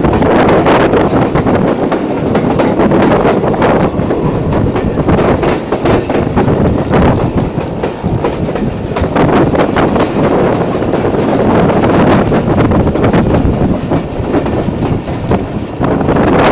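Passenger train coaches running on the rails, heard from an open carriage window: the wheels clatter over rail joints with a steady rush, and wind buffets the microphone.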